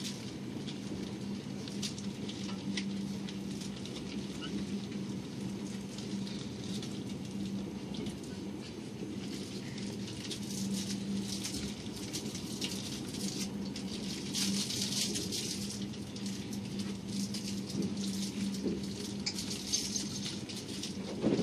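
Steady running noise inside a moving passenger train: wheels rolling on the rails under a constant low hum, with a crackling, rushing hiss that grows louder twice, around the middle and near the end.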